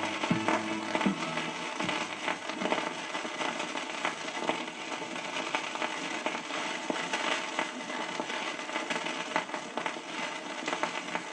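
Vinyl record surface noise: steady hiss with frequent crackles and pops from the groove between two tracks. The last notes of the previous song fade out in about the first second.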